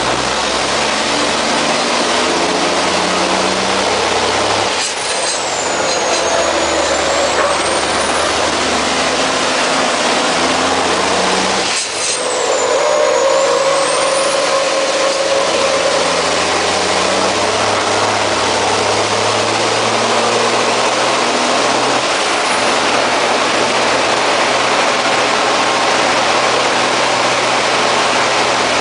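MAN race truck's turbo diesel engine running hard at racing speed, heard from on board, its pitch changing in steps. Twice, about five and twelve seconds in, it breaks off sharply with a hiss, and a high turbo whistle dips and climbs again.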